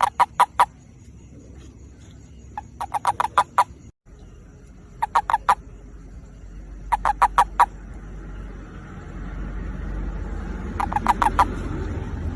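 Toad giving its mating call: short rapid runs of four to six sharp notes, repeated five times a couple of seconds apart. A low rumble swells underneath in the second half.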